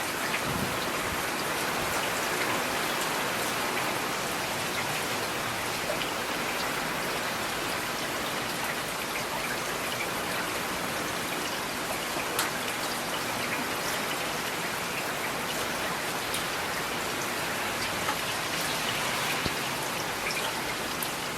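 Steady rain falling, a dense even hiss with scattered sharp drip and drop ticks.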